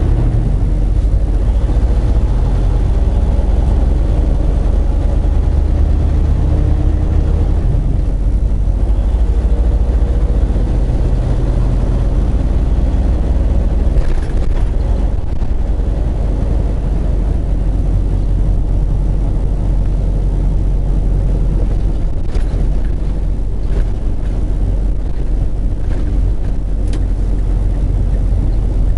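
Semi truck's diesel engine running under way, heard from inside the cab as a steady low rumble; the engine note changes about eight seconds in, with a few faint clicks near the end.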